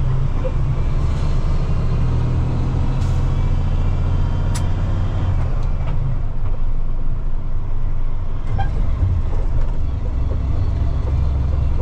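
Semi truck's diesel engine running under a heavy trailer load, a steady low rumble heard from inside the cab, with a few faint clicks.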